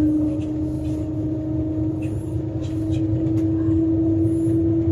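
Cabin noise inside the Shanghai maglev train as it accelerates: a steady low rumble under a humming tone that slowly rises in pitch.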